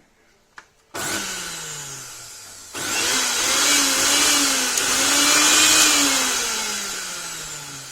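Mixer grinder's brushed motor, fitted with new carbon brushes and running with its back cover off: it starts suddenly about a second in and winds down, then runs louder from about three seconds with a slightly wavering pitch, falling gradually toward the end. It runs again, so the new carbon brushes have cured the burnt-brush fault that had kept it from working.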